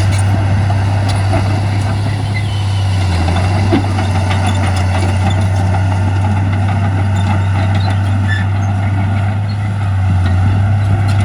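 Heavy diesel earthmoving machinery running under steady load, a deep constant engine drone that eases briefly about three seconds in and again near the end, with a short knock about four seconds in.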